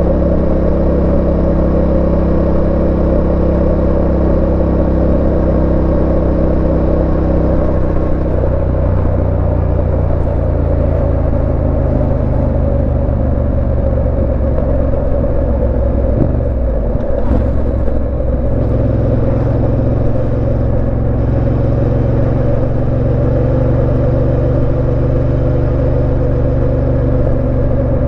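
Yamaha Tenere 700's 689 cc parallel-twin engine running under way, heard from the rider's position with road and wind noise. The engine note drops about eight seconds in, dips briefly just past halfway, then holds steady.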